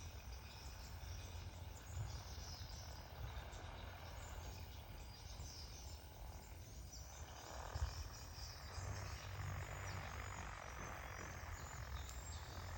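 Faint outdoor ambience of insects chirping over a low wind rumble, with a broad hiss that swells from about seven seconds in.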